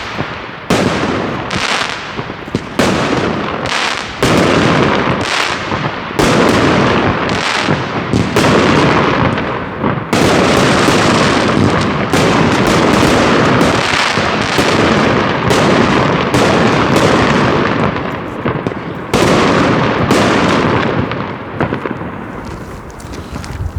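Fireworks going off in rapid succession: a dense run of sharp bangs and crackling several times a second, thinning out near the end.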